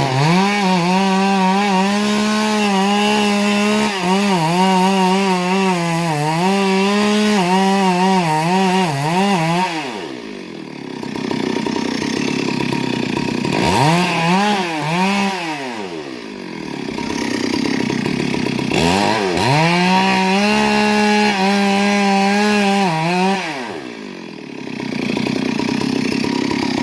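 Chainsaw held at high revs and cutting into wood in three long bursts, its pitch wavering and dipping as the chain bites. Between bursts it drops back toward idle.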